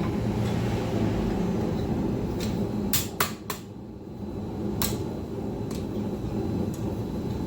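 Propane forge burner running with a steady low roar, and a few sharp metal clinks of steel and tongs a little past the middle.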